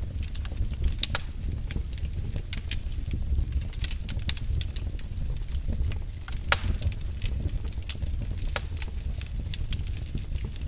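Wood fire in a fireplace crackling, with irregular sharp pops and snaps, one louder pop about six and a half seconds in, over a steady low rumble of the burning fire.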